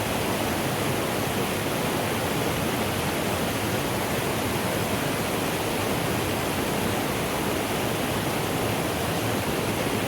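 Mountain stream water rushing steadily, a continuous even roar with no breaks.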